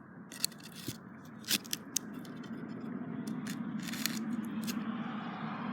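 Sticks and twigs being handled and set in place, a rustling scrape that slowly grows louder, with a few short sharp clicks as the wood knocks or snaps.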